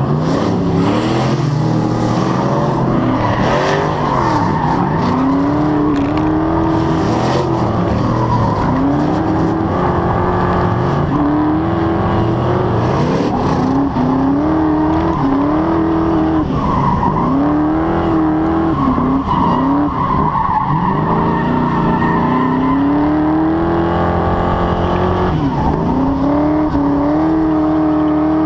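Fox-body Ford Mustang's 5.0 (302) V8 revving up and falling back over and over through a drift run, a rise every couple of seconds, with tires squealing and skidding.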